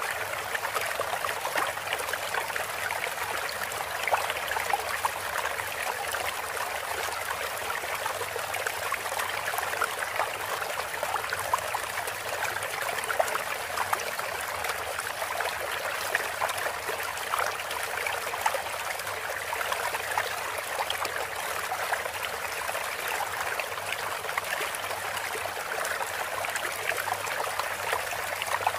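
Steady flowing, trickling water, like a small stream running over stones, played as a water-therapy interlude between stretches of canary song.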